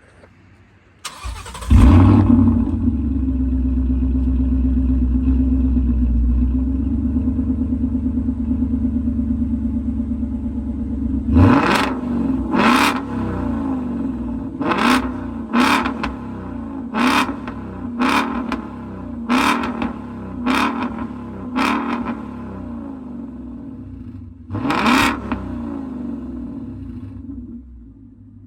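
Ford Mustang 5.0 V8 with an X-pipe and MBRP cat-back exhaust starting up about a second in and idling with a deep rumble, then blipped through about ten sharp throttle revs.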